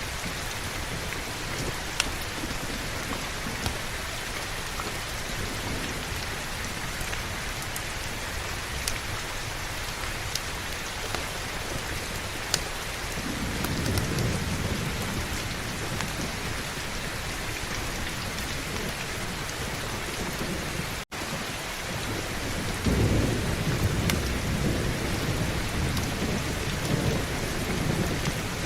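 Heavy rain falling steadily, with low rolls of thunder rumbling up about halfway through and again near the end. The sound cuts out for an instant about two-thirds of the way in.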